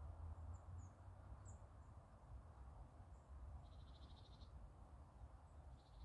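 Near silence outdoors: a faint low rumble, with a few tiny high bird chirps in the first two seconds and a short, rapid bird trill about two-thirds of the way through.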